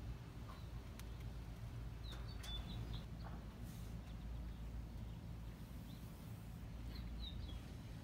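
Quiet outdoor background with a steady low rumble and a few short, high bird chirps about two seconds in and again near seven seconds.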